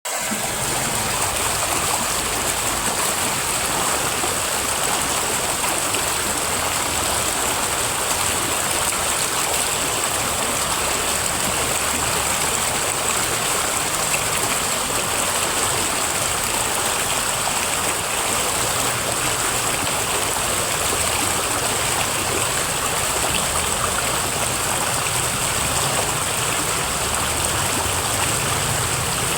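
Steady rush of running water, with an unbroken high hiss.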